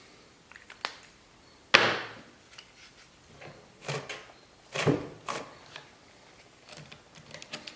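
Several separate knocks and clunks of a chainsaw and its sharpening tool being handled, the loudest about two seconds in.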